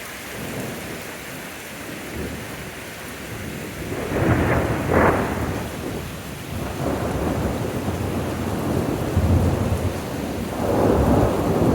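Thunder rumbling overhead over steady rain: a long roll of thunder swells about four seconds in, and another builds near the end.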